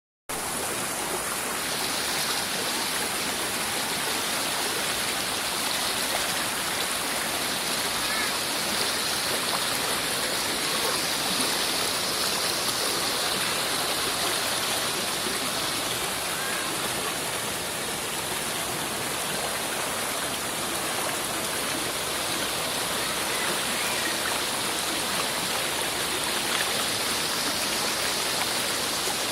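Waterfall water rushing and splashing steadily.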